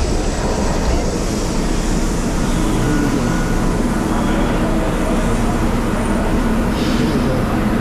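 Steady rumble and rattle of a subway train heard from inside the carriage, with a short hiss near the end.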